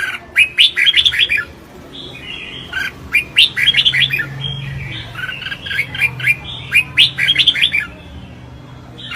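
Red-whiskered bulbul singing its contest song: short, fast phrases of bright, clear chirping notes, about a second each, repeated several times with softer warbling in the gaps.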